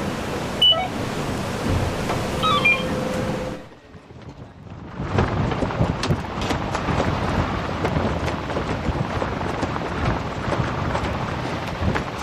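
Steady rush of wind and water from a racing yacht under sail, with two short high chirps in the first few seconds. After a brief dip about four seconds in, the noise comes back rougher and crackling, like spray and gusts hitting the microphone.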